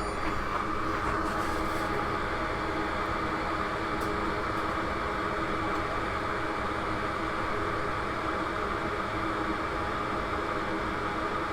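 A small electric fan running steadily, a constant whir with a faint hum, with a couple of faint ticks near the start and about four seconds in.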